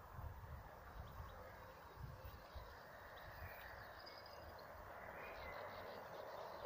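Faint outdoor ambience: a steady low hiss with a few faint, short high chirps and soft low rumbles.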